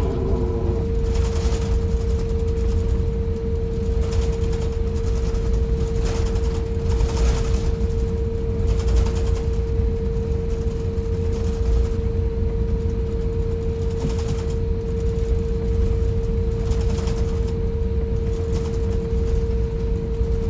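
Airbus A350-1000 cabin noise on the ground after landing: a steady low rumble with a constant hum, and light knocks every second or two as the aircraft taxis.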